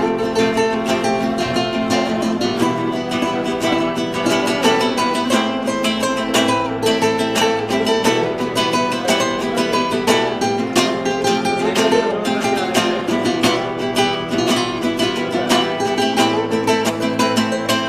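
Acoustic guitar improvisation: continuous plucked notes and strums in quick succession.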